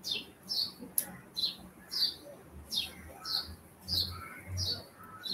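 A bird chirping repeatedly: short high calls that fall in pitch, about two a second.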